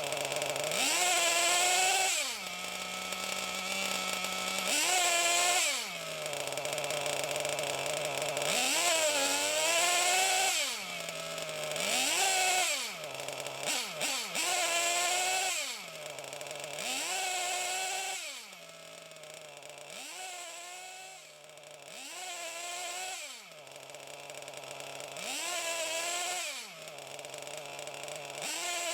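SH-1/8 miniature gasoline engine running and being repeatedly throttled up from idle to a higher held speed and back down, about every two to three seconds: throttle cycling during break-in.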